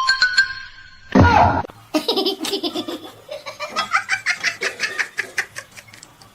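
A person laughing in a long run of quick, repeated bursts, after a short loud cry that falls in pitch about a second in.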